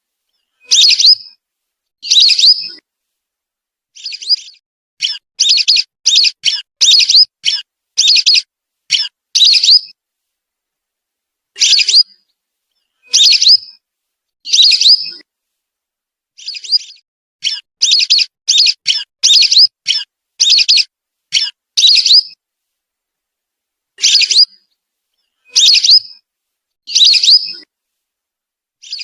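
Lesser whistling duck (belibis) calls played as a bird lure: short, high whistled calls, first a few single calls about a second apart, then a quick run of several, the pattern repeating about every twelve seconds. There is complete silence between the calls.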